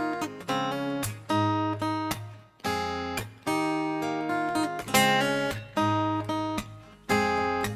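Solo acoustic guitar playing an instrumental passage: plucked chords struck about once a second, each ringing and fading before the next.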